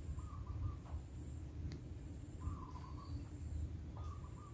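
Faint background: a low hum with three short chirping calls from a bird.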